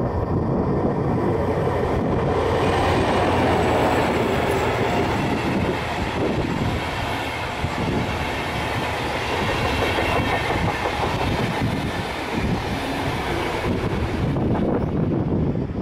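A diesel-hauled passenger train passing close by: the diesel locomotive goes by first, then a long rake of RegioJet coaches rolls past with steady wheel-on-rail noise. It is loudest a few seconds in and keeps going until it cuts off at the very end.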